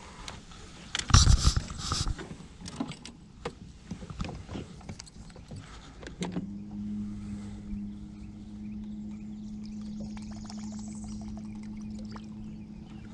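Knocks and clatter in the jon boat, loudest about a second in, then an electric trolling motor switches on about six seconds in, spins up quickly and runs with a steady hum.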